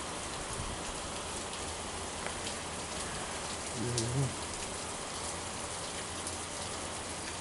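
Heavy rain falling steadily, with scattered single drops ticking close by. A brief low voice-like sound comes about four seconds in.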